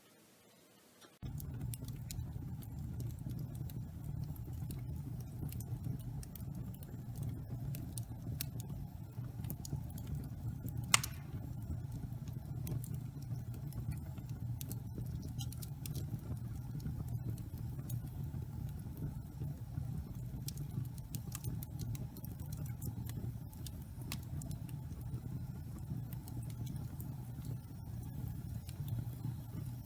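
Wood fire burning in a fireplace: a steady low rumble of flames with frequent small crackles and pops, and one sharp, much louder pop about eleven seconds in. The fire sound starts abruptly a little over a second in, after near silence.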